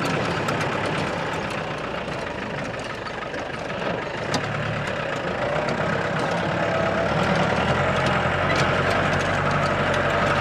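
Off-road jeep's engine running on a rough mountain track, heard from inside the vehicle, with occasional rattles and knocks. The low engine note grows stronger about eight seconds in.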